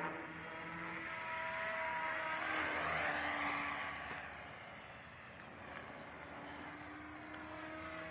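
Align T-Rex 500X electric RC helicopter flying, its motor and rotor whine drifting slightly in pitch. It swells louder about three seconds in, then eases off after about five seconds.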